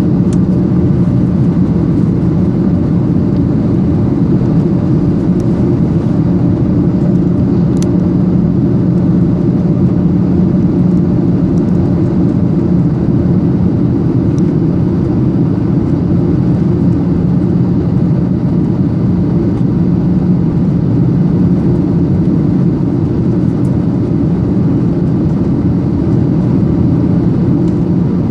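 Steady drone of a Boeing 737-800's CFM56-7B engines and airflow inside the passenger cabin, with a low hum and no change in pitch. A couple of faint ticks sound over it.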